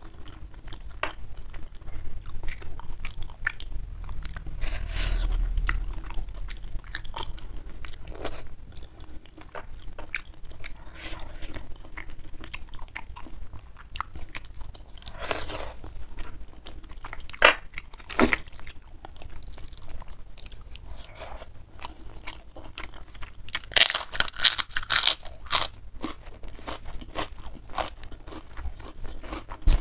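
Close-miked chewing and biting of food: a steady run of small crunching clicks, with a burst of louder crunches about three-quarters of the way through.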